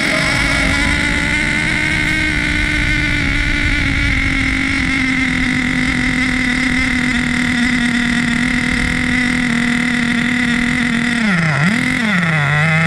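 HPI Savage X 4.6 nitro monster truck's small glow engine running at high revs with a steady, slowly sagging pitch, then dropping off twice near the end and winding back up as the throttle is lifted and reapplied.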